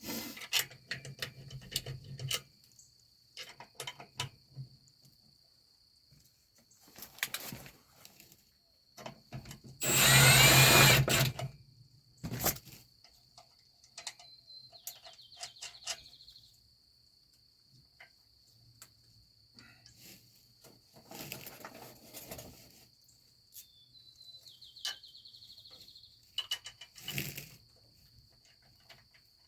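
A handheld power drill runs in one short burst of about a second and a half, about ten seconds in, its pitch rising as it spins up. Around it come scattered metallic clinks and knocks of parts and tools being handled under the trailer, over a steady high chirring of crickets.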